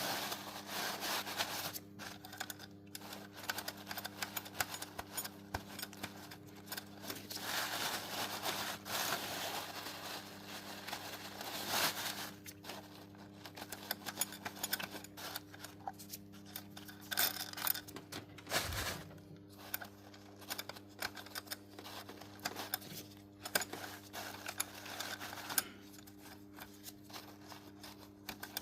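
BMW N57 straight-six diesel engine running steadily, with a dense, rapid clicking rattle over it that swells and fades in stretches: the timing chain noise being diagnosed.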